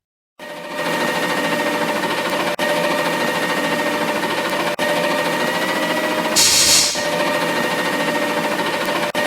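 Garbage truck machinery running steadily with a fast mechanical rattle and a steady whine, starting abruptly about half a second in; a short burst of air hiss comes about six seconds in.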